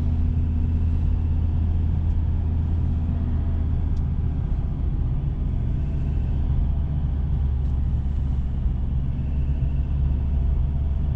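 Ford Ranger pickup's diesel engine and tyres heard from inside the cab while driving at a steady pace: an even low drone with road noise, without revving or gear changes. The diesel is a little noisy, as diesels are.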